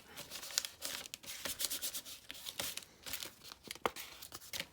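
Paper being rubbed and smoothed down onto a journal page by hand: an irregular run of short, scratchy strokes.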